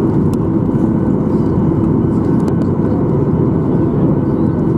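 Steady cabin noise inside a Boeing 737-800 on the ground after landing: its CFM56 engines running at idle, an even rumble with a steady hum over it.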